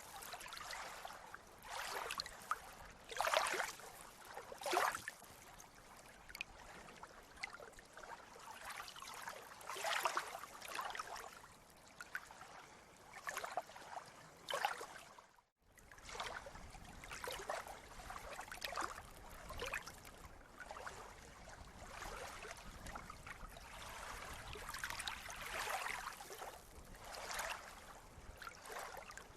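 Small sea waves lapping and splashing in irregular slaps every second or two over a steady wash of water. The sound cuts out for a split second about halfway through.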